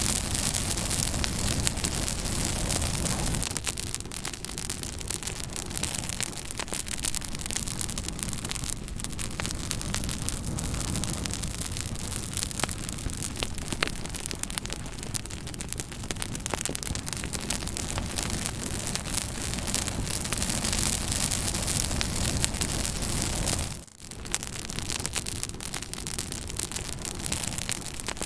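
Fire crackling: a steady hiss with dense, irregular pops and snaps. The sound dips out briefly for a moment near the end, then resumes.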